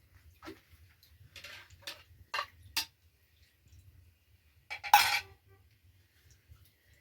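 A series of sharp clinks and knocks, like pots, dishes or utensils being handled, with the loudest cluster about five seconds in.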